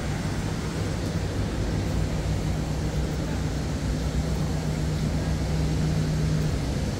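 Steady low drone of a Renfe AVE high-speed train standing at a station platform, with a steady hum that stops near the end.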